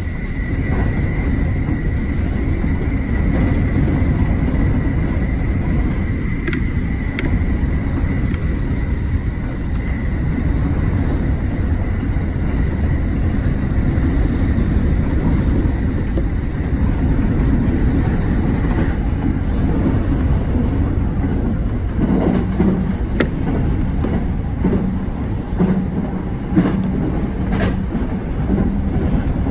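Sobu Rapid Line electric commuter train running at speed, heard from inside the front car as a loud, steady rumble of wheels on rail. A faint steady whine fades out after about seven seconds. In the last third come several sharp clacks as the wheels run over track points.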